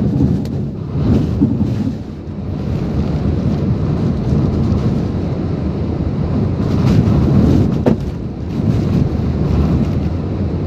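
Typhoon wind and heavy rain, a loud low rushing that swells and eases in gusts, with the wind buffeting the microphone.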